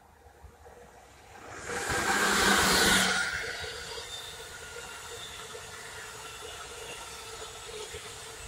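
Amtrak Acela high-speed electric train passing close by at full speed: a loud rush as the front goes by about two seconds in, then settling to a steady rolling noise as the cars run past.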